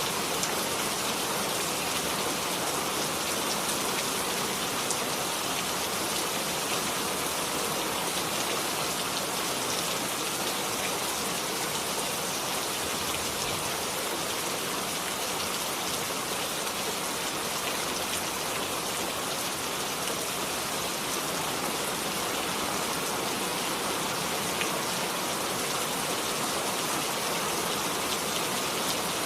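Steady rainfall, a dense even patter of raindrops hitting a surface.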